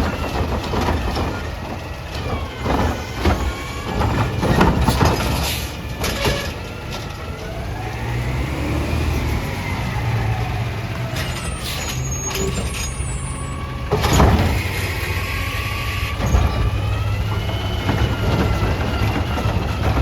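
Peterbilt 320 garbage truck at work: its diesel engine runs throughout under a whine that rises and falls. Several loud bangs come between about four and six seconds in and again around fourteen seconds.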